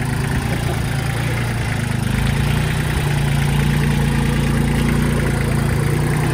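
Tractor diesel engine running steadily, its note swelling slightly about two seconds in and then holding.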